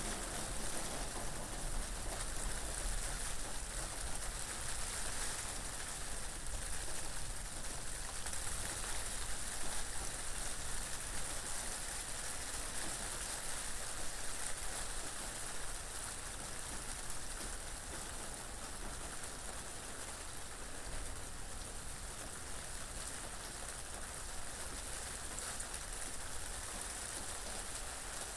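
Steady rain falling, with a low wind noise underneath.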